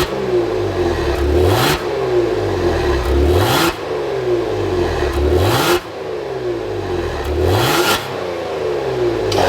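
Genesis G70 3.3T's twin-turbo V6 through a Joonbiel GT valved exhaust, revved sharply about five times, each rev falling back before the next.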